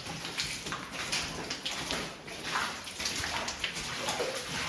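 Water splashing and sloshing in irregular, uneven splashes.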